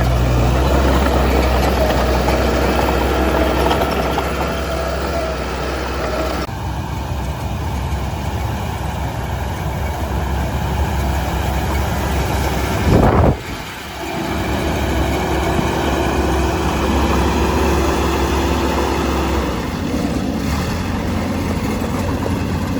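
Diesel engine of heavy earthmoving machinery running steadily, the sound changing abruptly about six seconds in. About halfway through, a brief loud sweep rises and falls over it.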